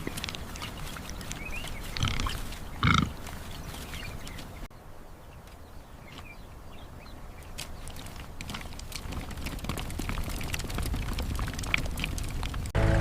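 An animal grunting twice in short bursts, about two and three seconds in, over outdoor ambience full of small clicks and ticks.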